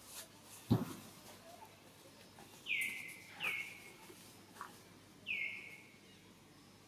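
A bird calling three times, each a short call that slides down in pitch and levels off, two in quick succession near the middle and one more a little later. About a second in there is a single low thump.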